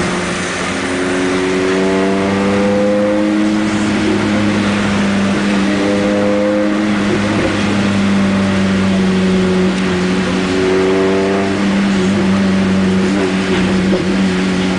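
Honda Integra DC2's B20 VTEC four-cylinder engine running with no exhaust fitted, loud and steady, with a few faint rising tones over it.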